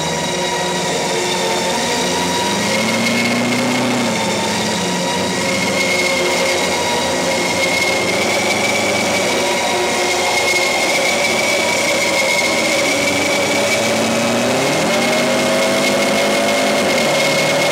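Car engine and road noise heard from inside the cabin while the car accelerates on a highway. The engine pitch climbs twice, a few seconds in and again near the end.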